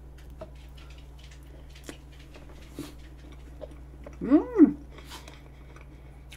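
Soft chewing of a mouthful of vanilla pound cake with whipped cream, heard as faint scattered clicks. About four seconds in comes one short vocal sound that rises and then falls in pitch, the loudest thing heard.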